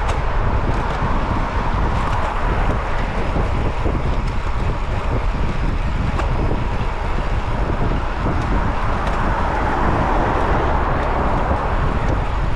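Steady wind rushing over the microphone, with road and traffic noise underneath.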